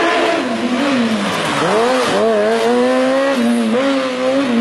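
Suzuki Hayabusa inline-four motorcycle engine in a small car, running at high revs. The pitch drops about one and a half seconds in, then climbs back and holds high to the end, with smaller rises and dips.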